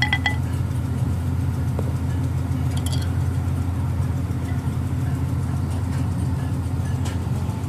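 An engine running steadily at an even speed, with a short metallic clink about three seconds in.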